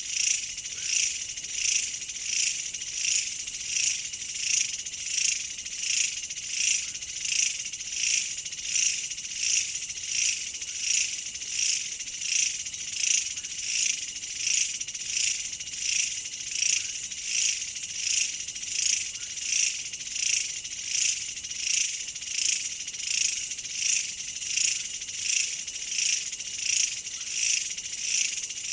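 Chorus of calling insects: a high-pitched shrill trill that swells and fades evenly a little more than once a second, without a break.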